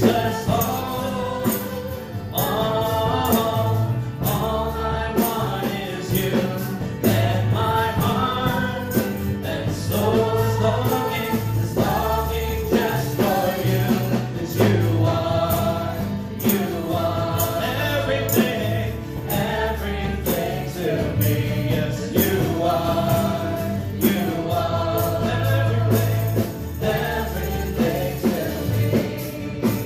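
Live gospel worship music: a band with bass and drums playing while a group of voices sings.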